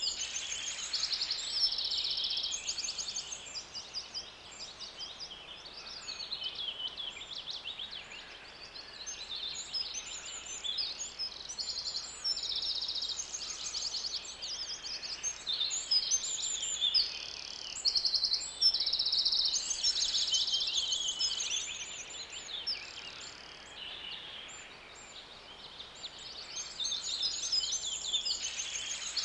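Songbird chirping and trilling continuously: rapid runs of high, quick notes following one another with only brief lulls.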